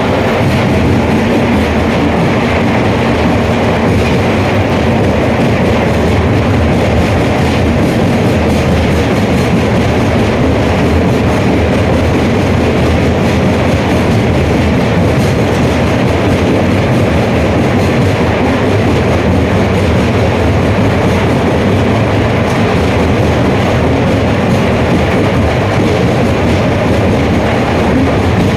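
4 kW electric motor running under full load, a loud, steady mechanical running noise that holds constant throughout.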